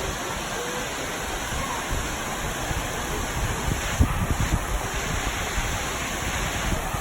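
Waterfall rushing: a steady hiss of falling water, with a few low bumps on the microphone about four seconds in.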